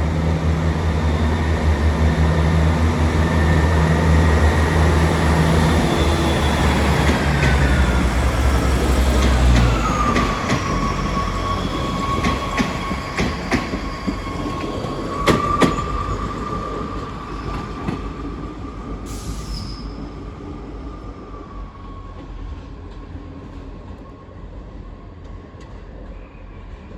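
Diesel multiple unit pulling out and moving away. A heavy engine sound dominates for about the first ten seconds, and a whine slides down in pitch and then holds steady. Wheel clicks over the rail joints follow, and the whole sound fades as the train recedes.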